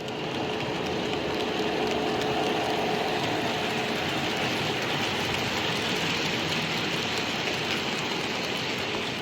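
Train moving through a railway station: steady rail and wheel noise with a faint whine that fades out about four seconds in.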